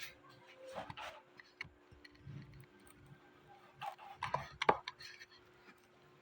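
Chewing and crunching of raw vegetables close to the microphone, in short crisp crunches with a louder cluster about four to five seconds in.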